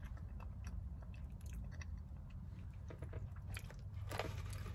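A person chewing a mouthful of soft baked macaroni and cheese close to the microphone: faint, scattered wet mouth clicks, busier about four seconds in, over a steady low hum.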